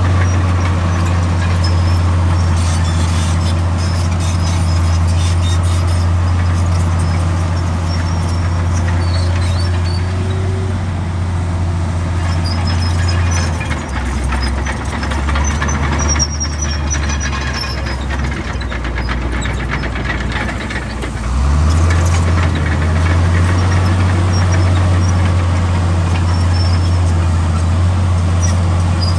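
Heavy diesel earthmoving machinery running steadily under load, with faint high squeaks now and then. Its engine note drops lower about 14 seconds in and comes back up about 21 seconds in.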